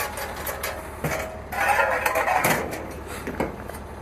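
Knocks and rattles of a metal hand truck being handled, with a louder clattering stretch about a second and a half in.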